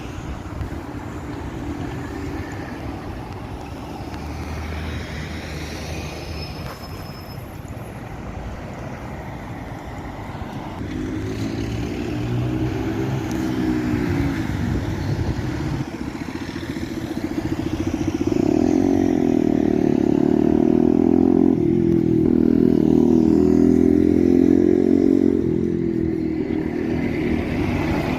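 Scania N230UD double-decker bus's diesel engine pulling away and accelerating, growing louder about a third of the way in. Its pitch rises and drops back several times as the automatic gearbox changes up.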